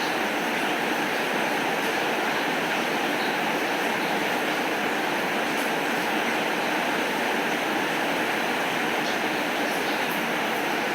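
Steady rain falling, an even unbroken hiss with a few faint ticks of drops in it.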